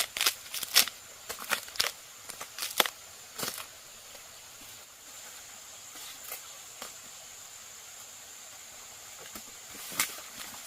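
Irregular sharp snaps and clicks, many in quick succession over the first three seconds or so. After that, a faint steady high hiss, with one more sharp click near the end.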